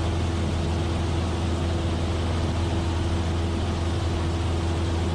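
Cessna 172F's Continental O-300 six-cylinder engine and propeller droning steadily in flight, heard from inside the cabin, with a steady hiss over it.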